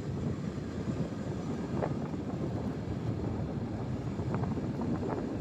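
Steady low rumble of wind on the microphone and motorcycle road noise while riding, with a few faint ticks.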